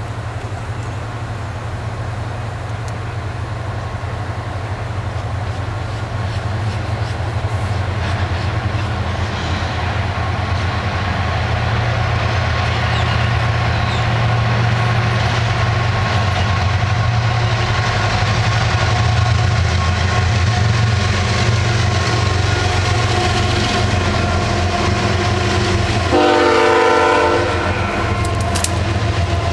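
Diesel freight locomotives of a Florida East Coast Railway train approaching and passing, their engine rumble building steadily louder, then long lines of double-stacked container cars rolling by. Near the end a short horn blast, about a second and a half long, sounds over the rumble.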